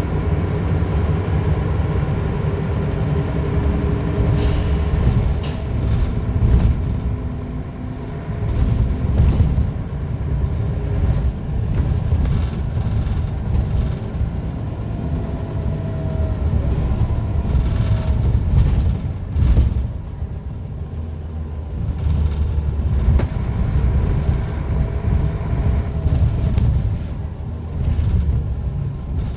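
Scania L94UB bus's nine-litre five-cylinder diesel engine running, its pull rising and easing, with a short air-brake hiss about four seconds in and scattered knocks and rattles.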